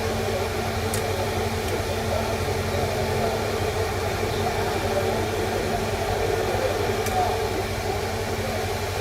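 Steady background hum and hiss, with two faint clicks about one second and seven seconds in.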